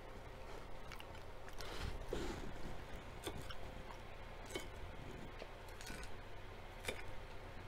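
Close-up chewing of a salad with lettuce and tortilla chips, with a few scattered light clicks of a fork against the plate.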